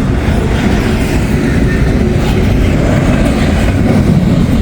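A freight train loaded with containers rolling past close by, its last cars going by with a steady, loud rumble of steel wheels on the rails.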